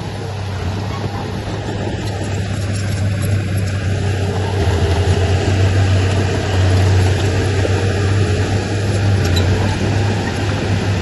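Diesel engine of heavy earthmoving machinery running steadily, with a strong low hum under a rough mechanical noise. It grows a little louder about halfway through.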